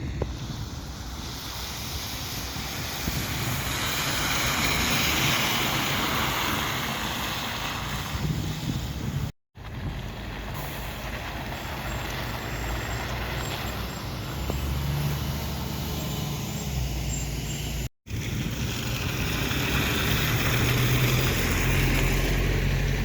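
Street traffic at a bus stop, mostly bus engines running and pulling through, with a steady road noise and engine hum that shifts pitch now and then. The sound cuts out briefly twice, about nine and eighteen seconds in.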